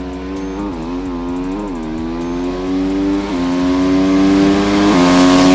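Dirt bike engine running at high revs, blipped briefly a few times in the first two seconds, then held steady with its pitch creeping up and growing louder toward the end.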